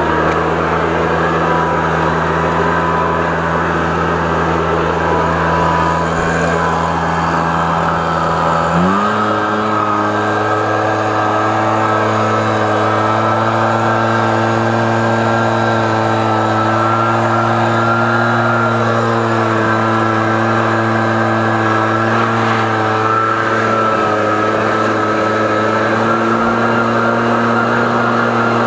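Gas backpack leaf blower running steadily while blowing out a truck's interior. It revs up as it begins, then steps up to a higher throttle about nine seconds in and holds there.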